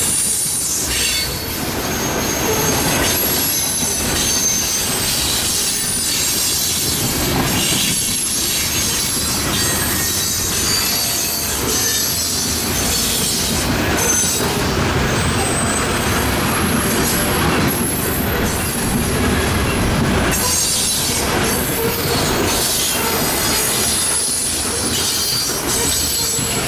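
Freight train cars rolling past at track level: a steady rumble of wheels on rail, with short high-pitched squeals from the wheels coming and going throughout.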